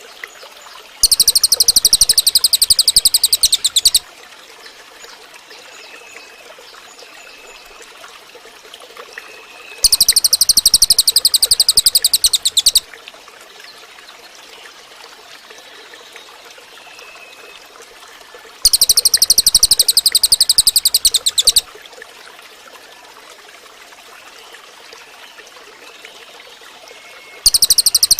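Cililin birdsong: a loud, very rapid high-pitched trill lasting about three seconds, repeated about every nine seconds, three times, with a fourth starting near the end. Between the trills there is a faint steady hiss with a few soft short chirps.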